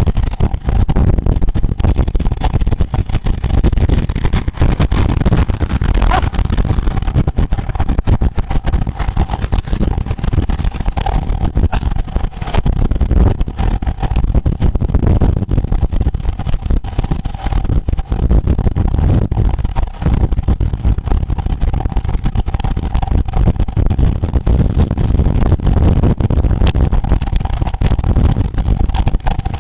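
Wind buffeting the microphone of a camera carried at racing speed on a road bicycle, a loud, constant rushing and flutter with a faint steady hum underneath.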